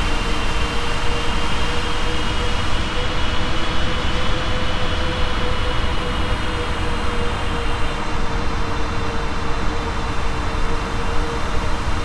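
Airbus A380 cabin noise on landing approach: a steady rush of engine and airflow noise with a deep rumble underneath, a held hum and a higher steady whine, heard from inside the cabin.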